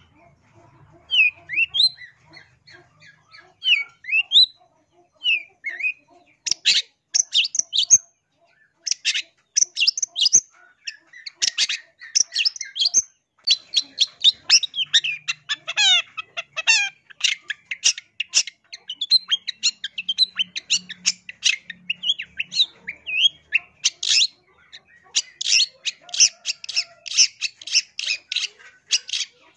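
Long-tailed shrike (cendet) singing. It opens with a few short slurred whistles, then about six seconds in breaks into long runs of rapid, harsh chattering notes that continue with brief gaps.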